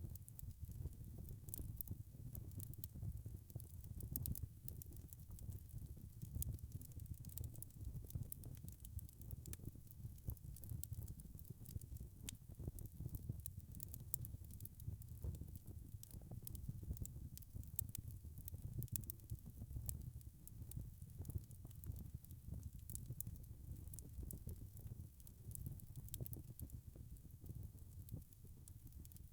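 Wood fire burning in a fireplace: logs crackling with frequent, irregular small pops over a low rumble of flames.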